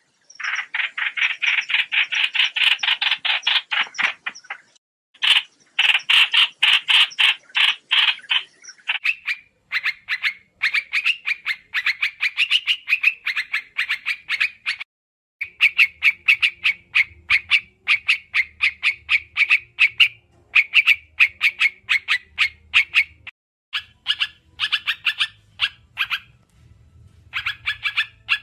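Trao trảo birds calling in long runs of rapid chattering notes, about ten a second, broken by short pauses.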